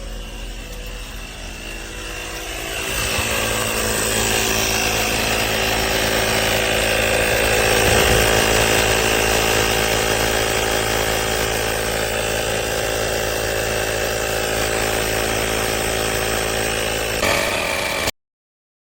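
AstroAI 12 V portable tire inflator's piston compressor running with a steady mechanical hum. It gets louder about three seconds in, then stops abruptly near the end.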